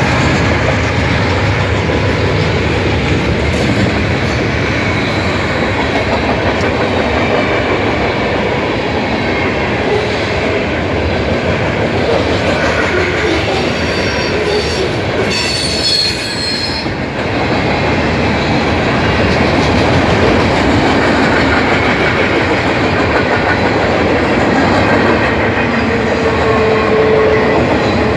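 Freight train cars, covered hoppers and flatcars, rolling past at close range: a steady, loud noise of steel wheels running on the rails. A brief high-pitched wheel squeal comes about fifteen seconds in.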